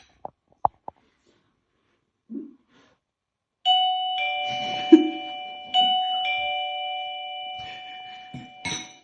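Two-tone ding-dong doorbell chime rung twice, each time a higher note and then a lower one that rings on, with the second ring about two seconds after the first. A short, low thump sounds between the two rings, and a few faint clicks come before them.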